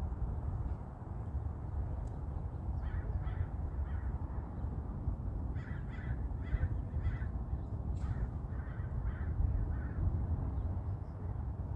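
A bird giving short, harsh calls in quick runs of several, three bursts of calling over a steady low rumble.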